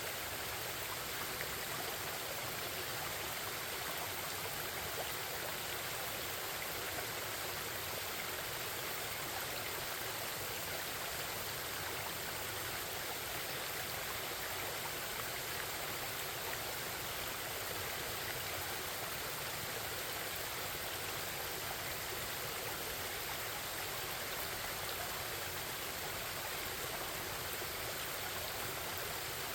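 Forest stream babbling and flowing steadily, an even rush of running water.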